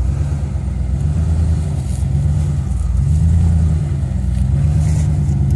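Off-road vehicle's engine running under load while rock crawling, the revs rising and falling several times as the driver works the throttle over the rocks.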